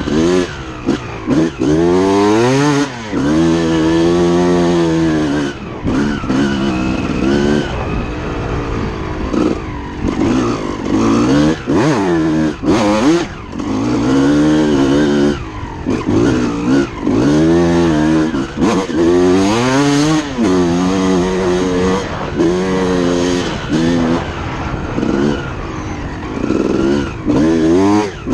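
2006 Suzuki RM250's two-stroke single-cylinder engine being ridden hard, revving up and dropping back over and over, its pitch climbing and falling every second or two with short throttle chops between.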